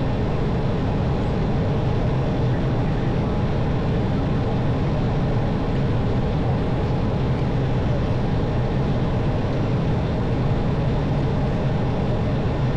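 Steady drone of an Airbus airliner's engines and airflow heard from inside the aircraft, a constant low hum with a few faint steady tones above it.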